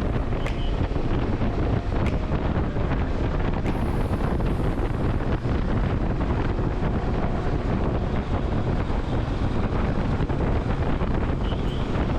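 Steady wind rush buffeting the microphone of a motorcycle being ridden at speed, with road and engine noise underneath.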